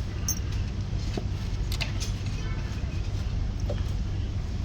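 Range Rover engine idling steadily, with a few light metallic clicks over it.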